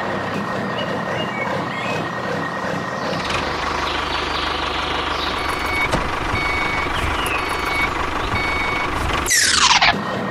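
Steady engine-like hum with a reversing alarm beeping evenly, about one beep every two-thirds of a second, through the second half. Near the end comes a short, loud sweep falling in pitch.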